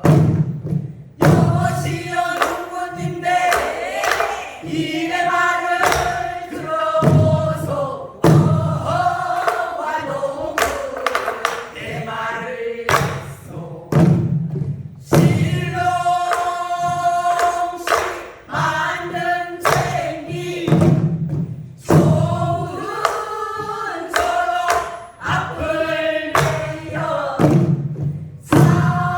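A group singing a Korean traditional song together in chorus while beating buk barrel drums, with sharp drum strokes between and under the sung phrases.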